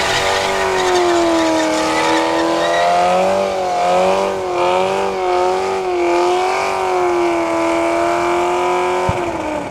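Car engine held at high revs during a burnout, its pitch wavering up and down as the throttle is worked, over the hiss of spinning tires. About nine seconds in the revs fall away sharply.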